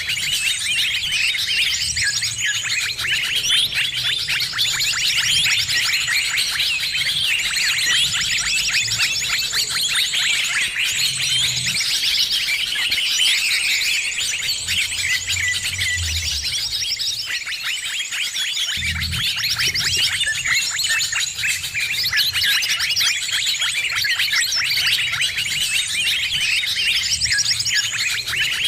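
Many small birds chirping and twittering at once, a dense, busy chatter of rapid high calls that never lets up: a noisy mixed-bird lure recording for attracting birds.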